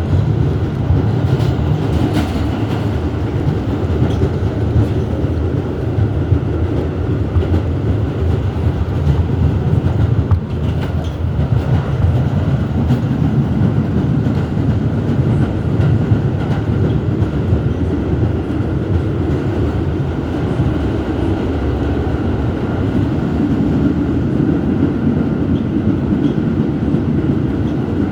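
R211S subway car running at speed between stations, heard from inside the car: a steady, loud rumble of wheels on rail with a few clicks from rail joints.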